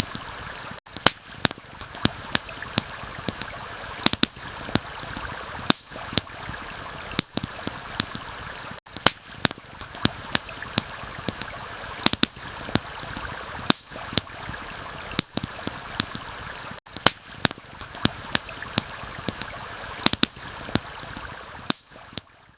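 Campfire crackling with frequent sharp, irregular pops over a steady rush of running stream water. The sound fades out near the end.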